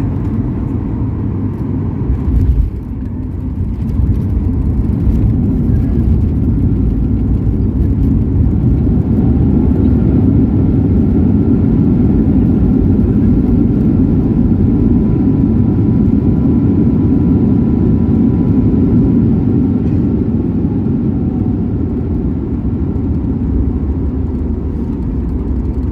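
Boeing 737 MAX 8-200 touching down: a thump about two and a half seconds in, then the CFM LEAP-1B engines' roar builds, as on reverse thrust, with a faint steady whine. It holds for about fifteen seconds, then eases off.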